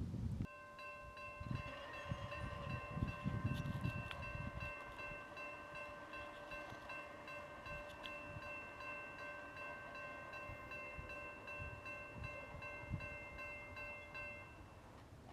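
Railroad grade-crossing warning bell ringing continuously as the crossing activates for an approaching train, starting about half a second in and stopping shortly before the end, with some low rumble of wind on the microphone in the first few seconds.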